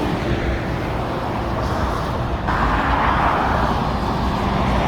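Motorway traffic passing beneath a road bridge: a steady wash of tyre noise and engine hum. About halfway through, a vehicle passes closer and the tyre noise grows louder.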